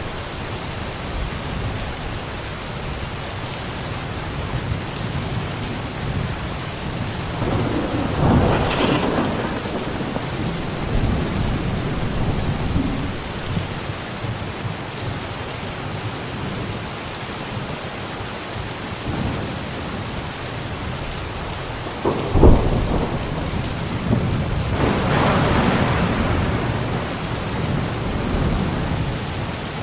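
Steady rain falling, with thunder: a long rumble about a third of the way in, then a sharp crack about two-thirds through, followed by another long rumble.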